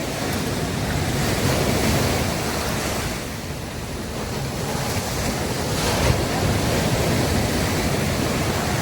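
Sea waves breaking on a beach, the surf swelling twice, about four seconds apart.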